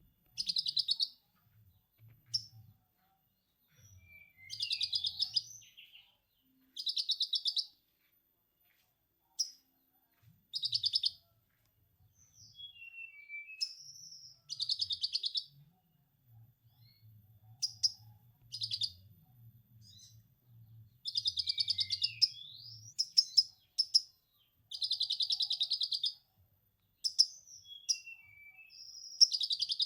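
A konin (sunbird) singing in bursts of fast, rattling lovebird-style 'ngekek' chatter, each about a second long and repeated about every two to four seconds, with short high chirps and little falling whistles in between.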